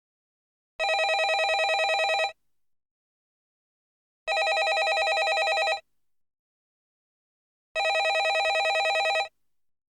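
Landline telephone ringing: three rings, each about one and a half seconds long with a fast trill, repeating every three and a half seconds with silence in between.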